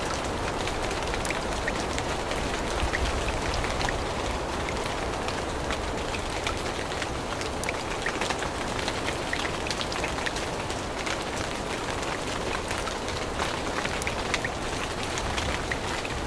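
Steady rain falling in a forest, with many small drops pattering and clicking on nearby surfaces.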